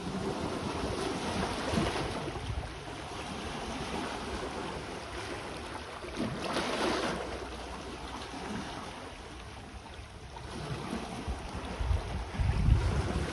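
Sea waves washing onto the shore, with a swell about six seconds in, and wind buffeting the microphone in low gusts near the end.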